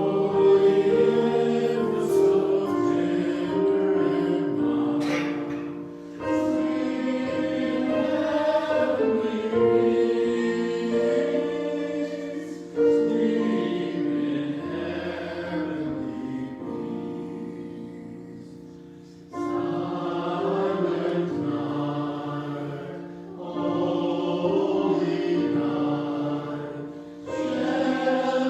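Choir singing a slow hymn in long phrases, each beginning strongly and then fading away.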